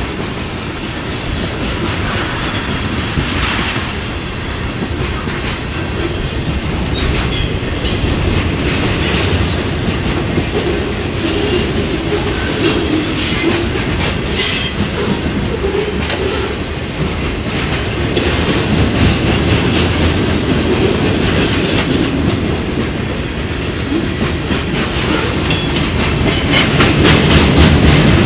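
Freight train cars rolling past at close range: a steady wheel rumble with clickety-clack and brief sharp high-pitched wheel noises now and then, the sharpest about halfway through.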